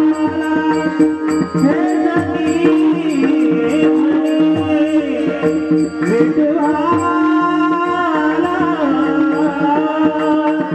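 Marathi gavlan folk-devotional music without words: a melody that bends and glides over a steady drone, with a quick, even ticking beat and hand-drum keeping time.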